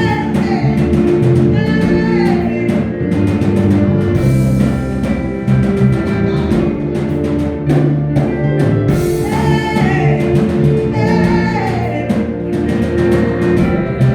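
Live gospel praise-break music: a band plays held chords over a steady drum beat, and a voice sings wavering runs over it at times.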